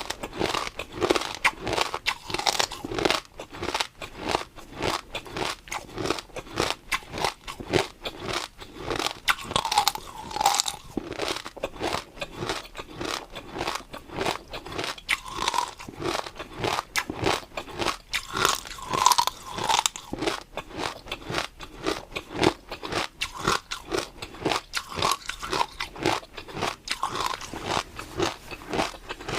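Crunchy food being chewed close to the microphone: rapid, continuous crunching and crackling bites with wet mouth sounds.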